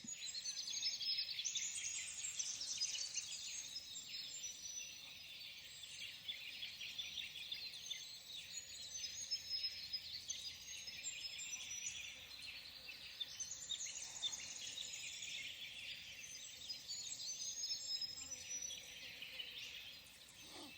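Several small birds singing and chirping at once, a dense overlapping chorus of high, quick notes that swells twice.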